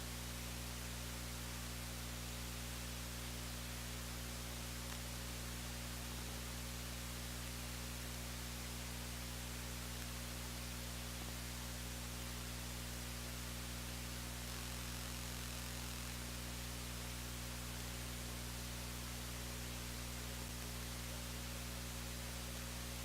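Steady electrical mains hum with its overtones under a constant hiss, unchanging throughout, with no game or crowd sound.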